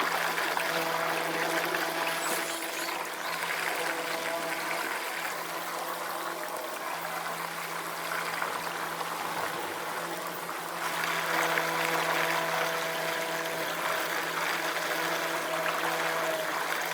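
Electric trolling motor of an Old Town Sportsman AutoPilot kayak humming steadily, with water rushing and splashing along the hull as it motors out; the water rush gets louder about two-thirds of the way in.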